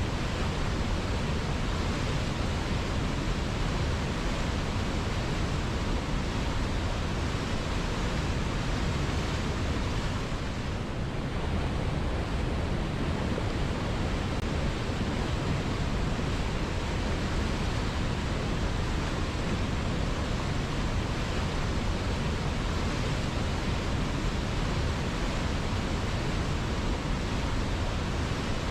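River water flowing, a steady rushing noise that dips slightly about eleven seconds in.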